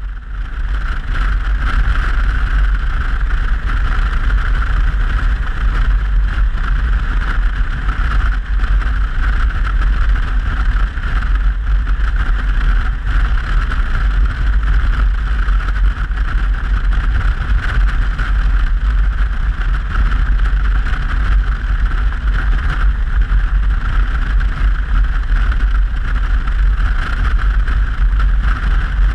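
A Yamaha XT660Z Ténéré motorcycle being ridden at speed, heavy wind buffeting the microphone over the steady road and engine noise. The sound starts abruptly at the beginning and stays steady throughout.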